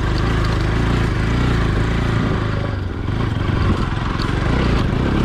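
Motorcycle engine running steadily under way on a rough off-road track, with a rushing noise over it.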